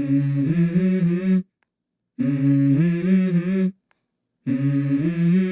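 Background music: a voice humming a tune in three short phrases, each about a second and a half long, with silent gaps between them.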